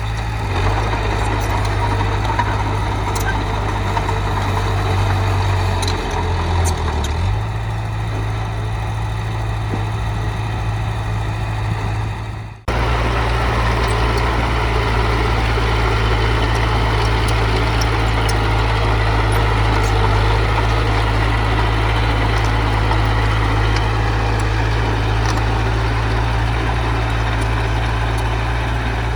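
Diesel engine of heavy earthmoving machinery running steadily with a deep low hum. The sound drops out for an instant about twelve seconds in, then carries on the same.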